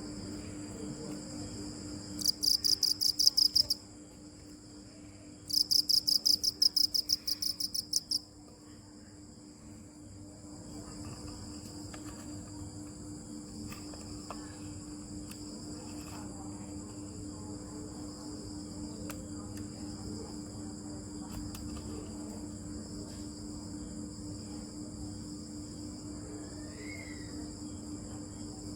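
Crickets chirping: one close cricket gives two loud bursts of rapid pulsed chirps, the first about a second and a half long and the second about two and a half seconds, over a steady high-pitched insect chorus. A faint low steady hum runs underneath.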